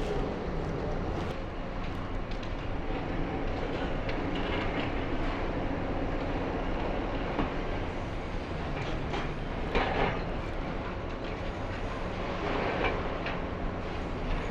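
Demolition excavator running steadily while its hydraulic crusher jaw works through reinforced concrete, with concrete debris clattering down about ten seconds in and again near the end.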